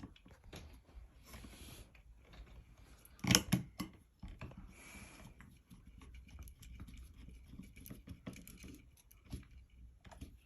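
Scattered small clicks and rattles of screws and metal ceiling-fan mounting hardware being handled and fitted, with a louder knock and clatter about three seconds in.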